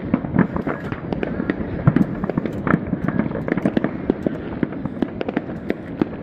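Fireworks going off: a dense, irregular crackle of many small bangs and pops, one after another with no let-up.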